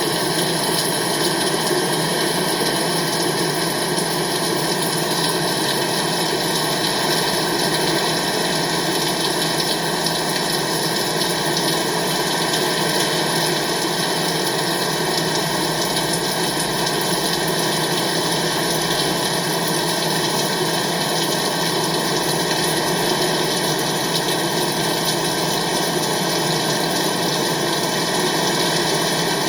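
Rain falling steadily: an even, unbroken hiss that never changes in level.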